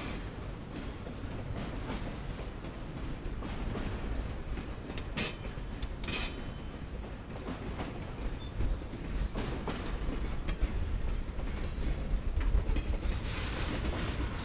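Freight train cars, mostly autoracks, rolling past close by: a steady low rumble of steel wheels on rail with clickety-clack over the joints, and two sharp clacks about five and six seconds in.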